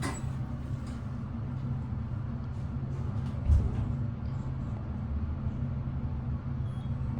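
Otis elevator car travelling between floors: a steady low hum and rumble from the moving car, with one low thump about three and a half seconds in.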